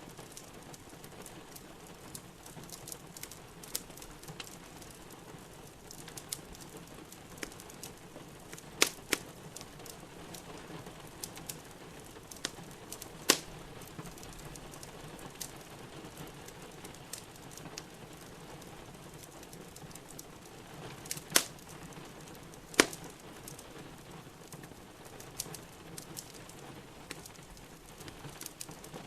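Wood fire crackling in a fireplace, with frequent small clicks and several loud, sharp pops, over a steady hiss of rain.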